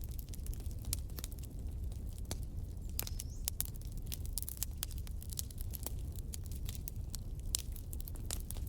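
Wood fire in a fireplace crackling, with many irregular small snaps and a few louder pops over a steady low rumble.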